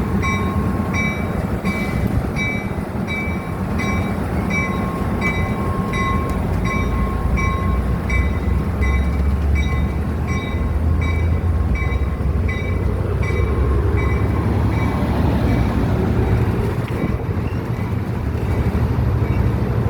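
Amtrak Capitol Corridor passenger train pulling out of the station, with a bell ringing in steady strokes about twice a second that fades out around fifteen seconds in. A low diesel locomotive rumble builds up from about eight seconds in as the train gets under way.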